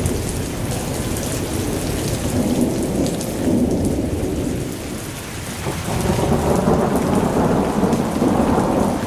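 Heavy rain pouring down, with a deep rumble underneath; it swells louder about six seconds in.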